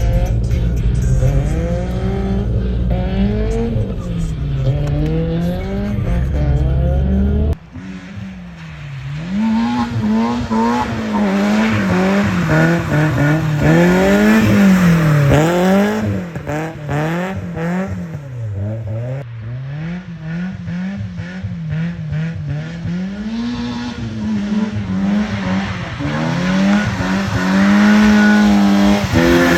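BMW E30 318is's M42B18 1.8-litre inline-four engine revving hard, its pitch swinging up and down every second or two as the car is drifted. The deep low rumble drops away suddenly about seven seconds in.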